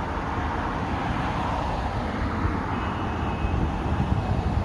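Steady city street traffic noise, with a faint thin high tone coming in over the second half.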